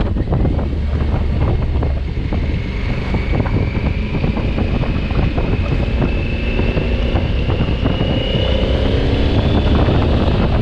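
2020 Honda Africa Twin's parallel-twin engine under way, heavy wind buffeting on the microphone, and the engine note rising steadily as the bike speeds up.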